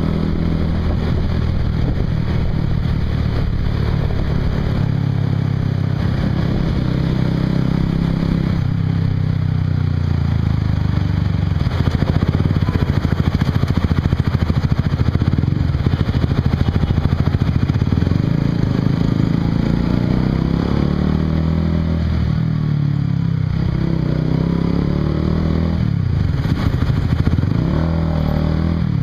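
Honda CBR150R's single-cylinder engine running through an aftermarket Yoshimura exhaust while riding. The revs rise and fall, changing the pitch of the exhaust note several times in the second half.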